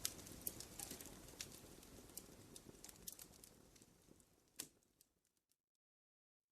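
Wood fire in a fireplace crackling, with scattered sharp pops over a soft low rush. The fire sound fades gradually and cuts to complete silence about five seconds in.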